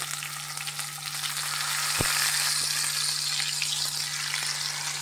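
Prawns shallow-frying in hot oil in a frying pan, sizzling steadily as more are dropped in one by one; the sizzle swells a little about a second in. A single knock sounds about two seconds in.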